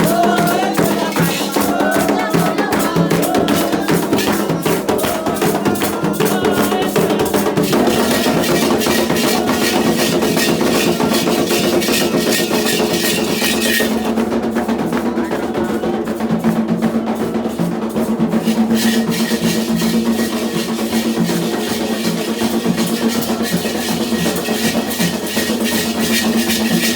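Candomblé ritual music: hand drums and percussion playing a fast, steady rhythm, with voices singing, the singing clearest in the first several seconds.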